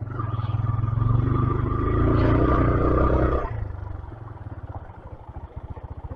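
A 125cc motorcycle engine runs loudly for about three seconds with a steady high tone over it, then drops back to a slow, even putter at low revs.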